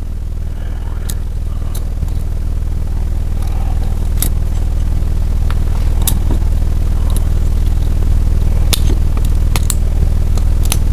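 Steady low mechanical hum of a running machine, with scattered light metallic clicks and ticks from piston rings being worked onto a piston by hand.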